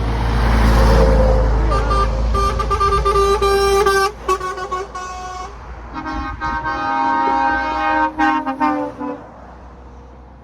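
A truck driving past, loudest about a second in, then truck air horns blown in quick repeated blasts: a chord of several tones from about two seconds in, and a second, lower-pitched horn pulsing from about six seconds in until near the end.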